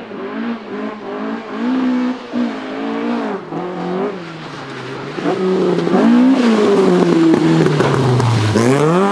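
Toyota Starlet rally car's four-cylinder engine revving hard, its pitch climbing and dropping over and over. It gets louder about halfway through, and near the end the revs fall low and then shoot back up.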